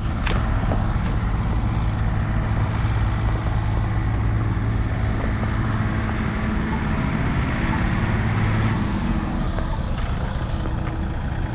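A motor vehicle's engine running close by with a steady low hum and noise that weakens about nine seconds in.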